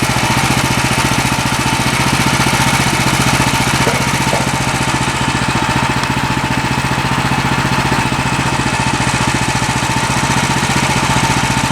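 Woodland Mills HM126 portable bandsaw mill running steadily on its small gas engine, an even fast engine beat with a steady high whine over it.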